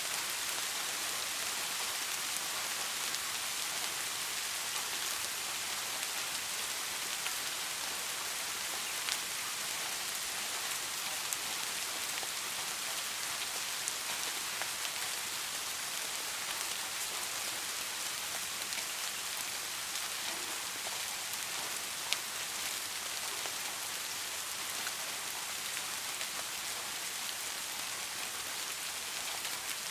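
Steady rain falling on a surface, an even hiss with a few sharper drop taps here and there.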